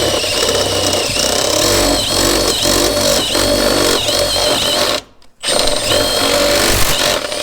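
Electric drill turning a step drill bit through sheet-metal body panel, the motor whine sagging again and again as the bit bites and steps the hole wider. The drill stops briefly about five seconds in, then runs again until near the end.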